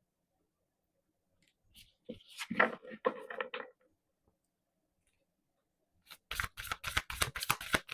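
Deck of tarot cards being shuffled by hand: a short soft rustle about two seconds in, then a quick run of rapid card flicks from about six seconds in.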